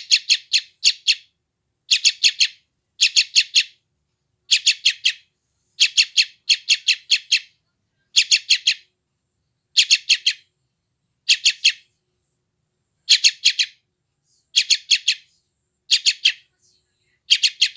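Yellow-vented bulbul chick calling in short groups of three or four rapid, high chirps, the groups repeating about every one to one and a half seconds: the hungry begging calls of a young bird.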